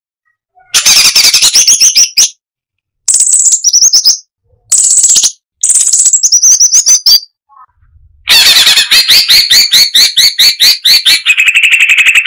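Cucak cungkok (striated bulbul) song: five loud bursts of rapid chattering notes with high whistled slurs, cut by short silences. The last and longest burst starts about eight seconds in and ends in a steady buzzy note.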